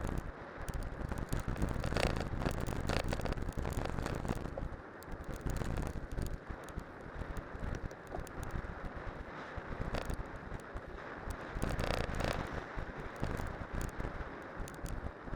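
Wind buffeting the microphone on a cyclocross bike descending at speed, over the rolling crunch and rattle of studded tyres on a winter road, with a few sharp knocks from bumps.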